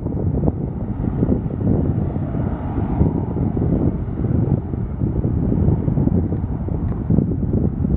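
Aircraft engines passing the airfield, a steady noise that swells slightly in the first half, mixed with heavy wind buffeting on the microphone.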